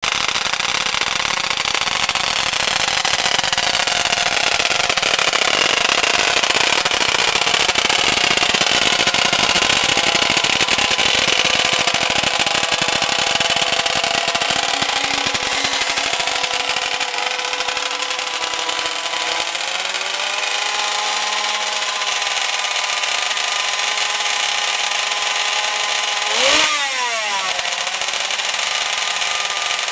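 König 500 flat-four two-stroke racing motorcycle engine running, its pitch drifting slowly up and down and climbing about two-thirds of the way in. Near the end it gives one sharp, quick blip of the throttle.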